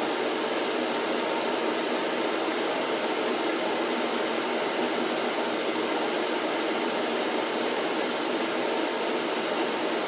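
Vacuum cleaner running steadily, a constant even hiss-like noise with no change in pitch or level.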